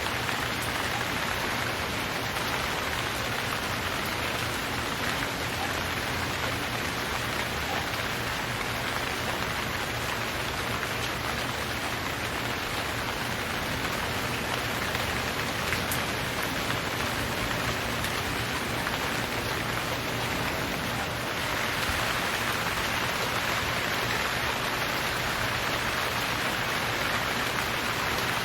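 Steady rain falling, a dense even hiss of drops, which swells slightly a little over two-thirds of the way through.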